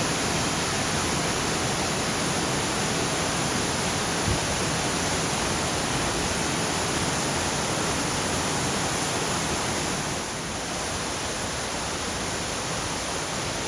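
Cascading, multi-tiered waterfall: a steady, loud rush of falling water that dips slightly about ten seconds in.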